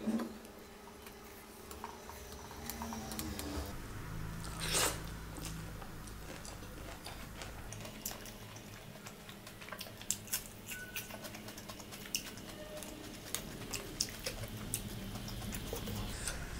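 A person chewing food close to the microphone, with small wet mouth clicks and smacks, and a louder crunchy bite about five seconds in.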